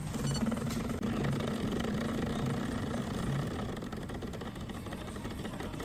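Decent espresso machine's pump humming steadily as it runs, easing off a little after about three seconds.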